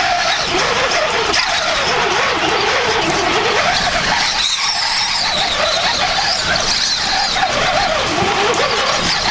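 Storm winds of about 60 mph with heavy gusts, rushing steadily, with a wavering whistle that rises and falls in pitch.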